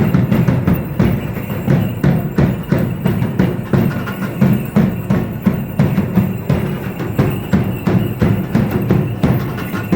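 Drums beating a steady, driving rhythm for a festival dance troupe, with sharp clicking percussion on top.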